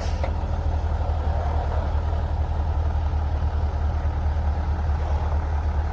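Engine of a 1940 GMC logging truck running steadily, a deep, even rumble with no change in pace.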